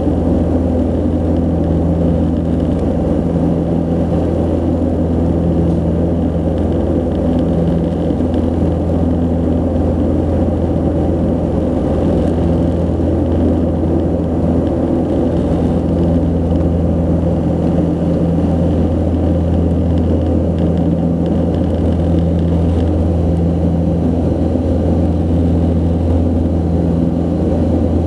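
Antonov An-24's two turboprop engines and propellers at power, a steady low drone with a slow, regular pulsing beat in its hum.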